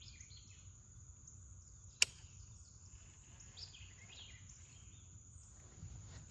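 Birds chirping over a steady high insect drone, with one sharp click about two seconds in.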